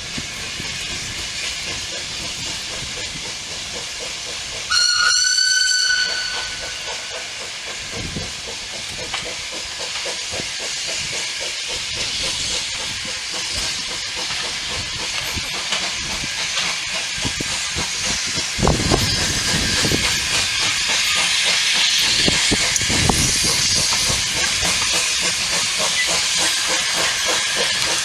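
Steam tank locomotive hissing steam, with one short whistle blast about five seconds in. The hiss swells slightly in the second half, with a few low thumps.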